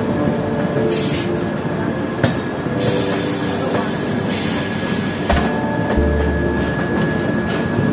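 Passenger train running on the rails, heard from an open coach door: a steady rumble and clatter of wheels on track, with wind gusting against the microphone.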